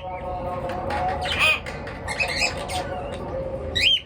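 Pet birds calling with short, sweeping squawks and chirps, loudest about a second and a half in and again just before the end.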